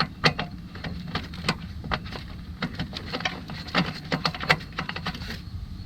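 Irregular light metallic clicks and taps from handling a small bolt and hand tools, several a second, over a low steady hum.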